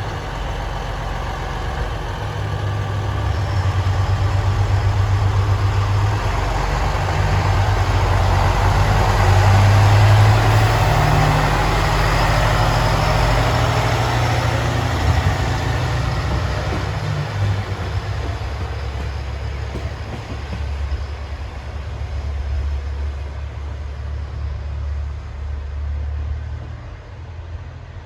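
Diesel railcar's engine running, with low steady tones that shift in steps as it works, while the train's running noise swells to a peak about ten seconds in and then fades away.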